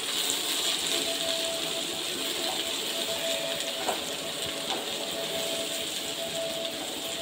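Chopped capsicum, carrot and onion sizzling in hot oil in a non-stick kadai as they are stirred with a silicone spatula: a steady hiss, with a couple of light knocks of the spatula against the pan near the middle.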